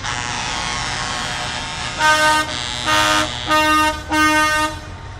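Truck air horns sounding: a long held horn note, then four loud blasts about half a second apart, over the rumble of truck engines.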